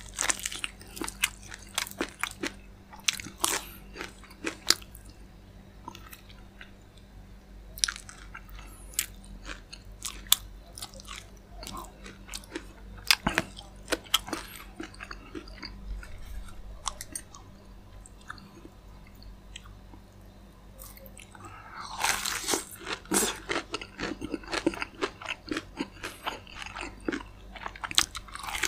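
Close-up chewing and biting of crispy fried chicken, with crackling crunches of the coating and wet chewing between bites. About three-quarters through there is a denser, louder run of crunching.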